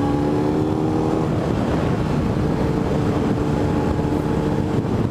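Motorcycle engine running while riding, under a steady rush of wind on the microphone. Its note fades about a second in, then holds steady.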